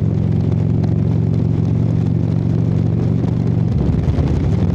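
Harley-Davidson V-twin motorcycle engine running steadily under way. About three and a half seconds in, the engine note changes and then settles again.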